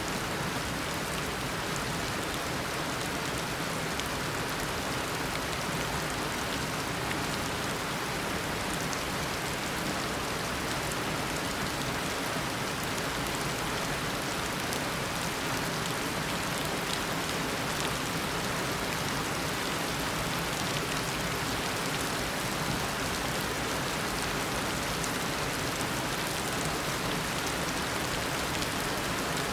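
Heavy tropical rain falling steadily, a dense even hiss with the patter of individual drops.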